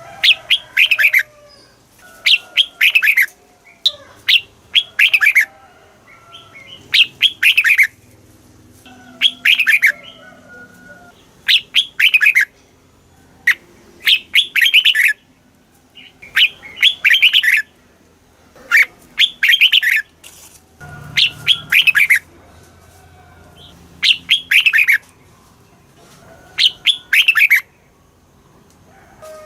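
Red-whiskered bulbul singing: short, bright phrases of two or three quick notes, repeated about every two seconds.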